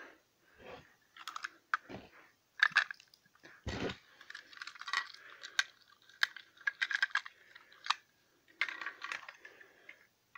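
Irregular light clicks and short ringing clinks of small hard objects, a dozen or more scattered through the stretch.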